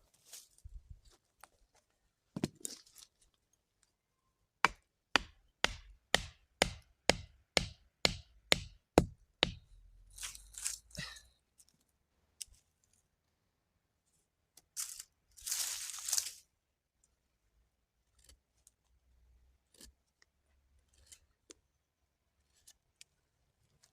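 A run of about ten sharp knocks or chops, roughly two a second, followed by a couple of brief rustling, tearing noises.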